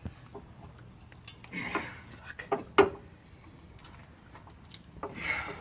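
Scattered metallic clinks and knocks from hands and tools working on an engine mount, with one sharp knock about three seconds in. There are two brief bursts of handling noise.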